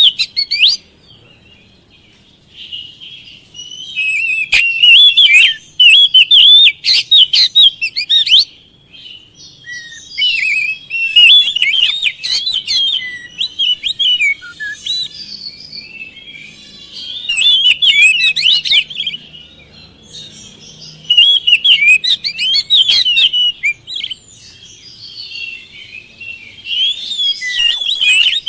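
Oriental magpie-robin (kacer) singing in full song: about five loud bouts of rapid, varied whistled phrases, separated by short pauses.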